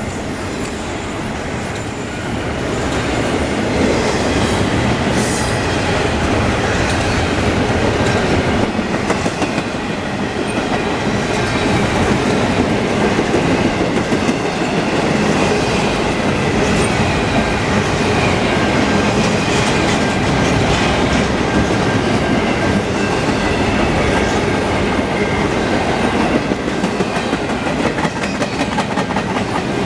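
A freight train's container well cars rolling steadily past, steel wheels clattering over the rails, with a thin wheel squeal at times.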